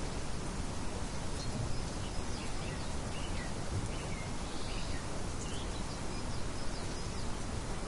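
Birds chirping in scattered short calls over a steady, even background hiss of outdoor ambience.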